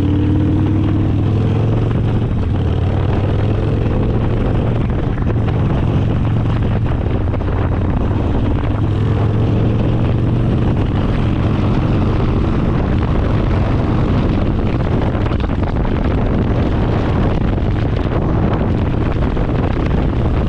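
Harley-Davidson Sportster's air-cooled V-twin running steadily under way, a deep low drone through the exhaust with wind noise on the microphone.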